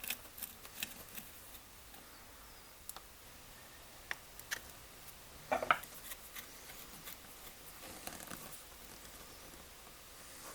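Scattered light clicks and ticks, a louder cluster of clicks about five and a half seconds in, and a short soft scrape around eight seconds, as small tool parts are handled.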